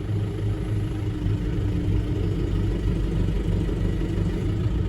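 Farm tractor engine running steadily with a low rumble, heard from inside the cab.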